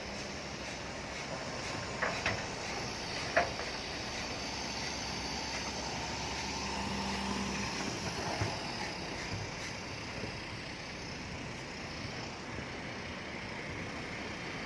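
Heavy diesel earthmoving machinery running steadily, with a few sharp metallic clanks about two to three and a half seconds in.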